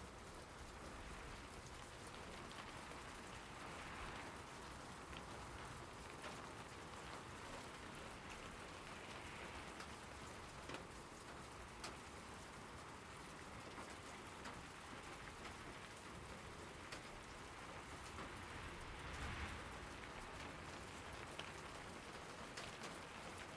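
Steady rain falling, an even hiss with scattered sharper drip ticks and a couple of brief swells in intensity.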